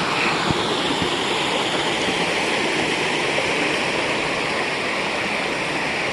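Steady rushing of a creek's small cascade and stream water.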